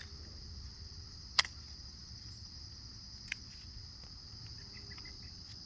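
Steady high-pitched chorus of crickets, with a low outdoor rumble underneath. Two sharp clicks stand out, one about a second and a half in and a fainter one past three seconds.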